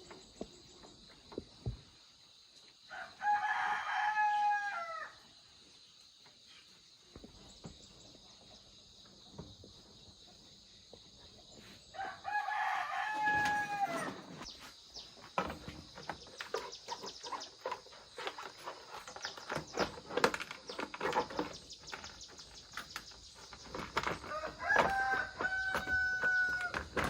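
A rooster crowing three times, each crow about two seconds long, over a steady high insect chirring, with scattered clicks and knocks between the second and third crows.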